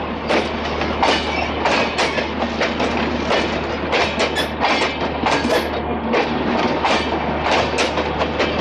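Indian Railways passenger coaches rolling past, their wheels clicking and clattering over rail joints in a quick, uneven run of knocks above a steady low rumble.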